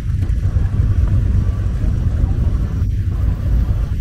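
A Dodge Challenger muscle car's engine giving a deep, steady rumble as the car rolls slowly past at low speed.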